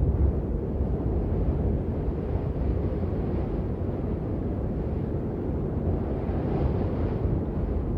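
Steady, muffled rain noise: a low rumble with little high hiss or separate drops.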